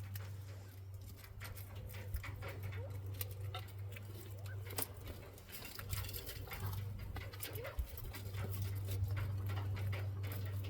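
Quail moving about the aviary, a patter of small clicks and rustles from pecking and scratching, with a few faint short chirps. A steady low hum runs underneath.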